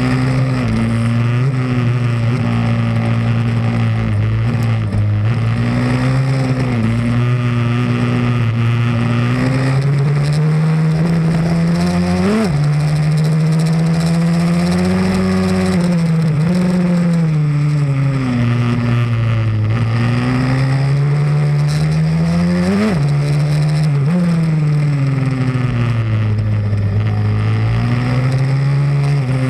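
Pit bike's single-cylinder four-stroke engine running hard on track, its pitch rising and falling over and over as the throttle is opened and closed, with two sharp breaks in pitch near the middle and later on.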